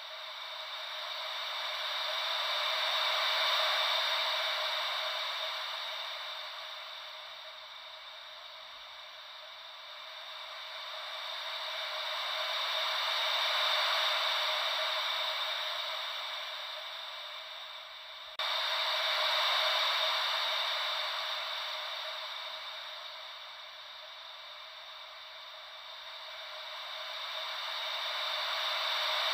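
Hissing white noise shaped like gentle ocean waves, swelling and fading about every ten seconds, with no low rumble. The level jumps up suddenly about 18 seconds in.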